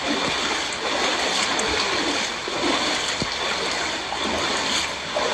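Floodwater splashing and running, a steady rush of water.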